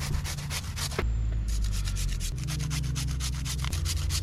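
Raw potatoes being grated by hand on a grater: quick, even rasping strokes, about four a second.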